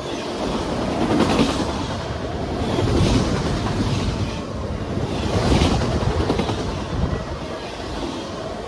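Railroad cars rolling past, their wheels clattering over the rail joints; the rumble swells and eases as each car goes by, about every two seconds.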